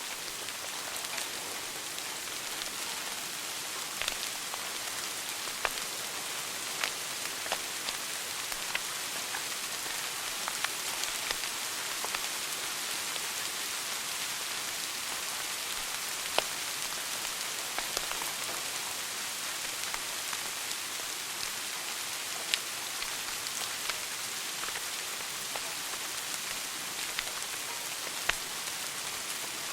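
Wood fire burning in a fireplace: a steady hiss of burning with irregular sharp crackles and pops every second or few.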